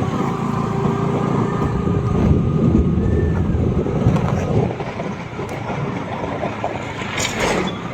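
Vehicle driving along a road: steady engine and road noise, with a brief hiss near the end.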